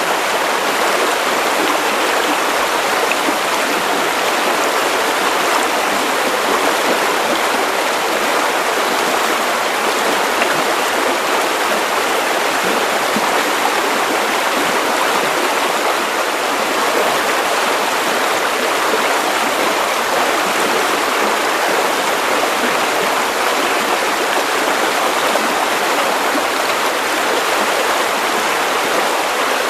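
Steady, unchanging white-noise hiss, the kind played as a sleep aid for babies, with no rhythm or breaks.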